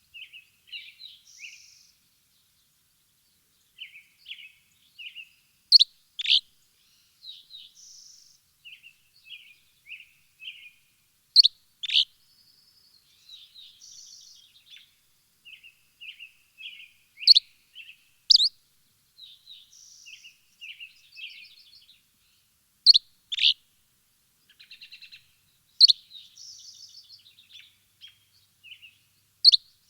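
Birds chirping: a continual run of short, high chirps and trills, broken about every six seconds by a louder, sharp two-note call.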